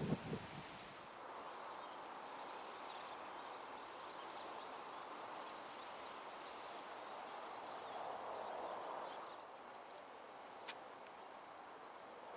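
Outdoor ambience: a steady rushing hiss with a few faint bird chirps, a brief rustle at the start and a single sharp click near the end.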